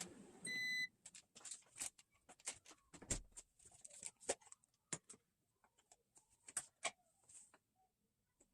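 One short electronic appliance beep, then a string of irregular light clicks and taps from objects being handled.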